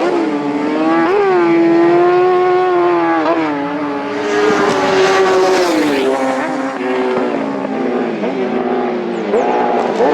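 Several racing motorcycle engines at high revs, their pitch climbing and then dipping repeatedly as the riders shift gears and work the throttle.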